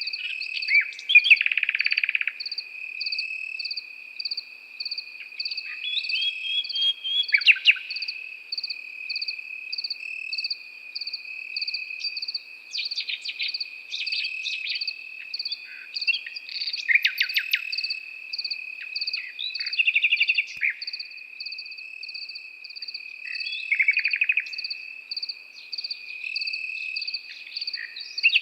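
Nightingale singing in short, varied bursts of rapid trills and clicking notes every few seconds, over crickets: one steady high trill and a second high chirp pulsing about twice a second.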